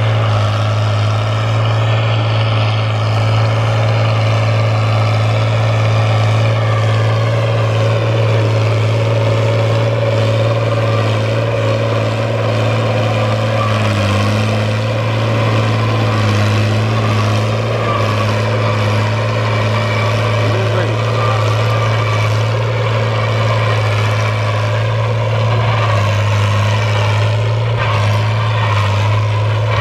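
Fiat 1000 DT tractor's diesel engine running steadily while plowing.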